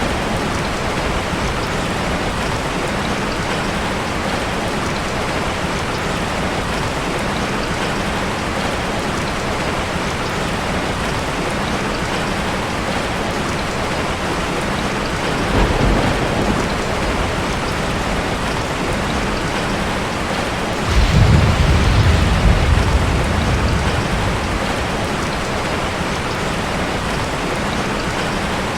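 Heavy rain falling steadily, with a short low rumble of thunder about halfway through and a louder, longer rumble a few seconds later.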